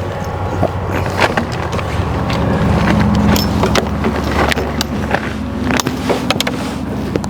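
An engine idling steadily in a low hum, with scattered sharp clicks and knocks of handling parts and tools.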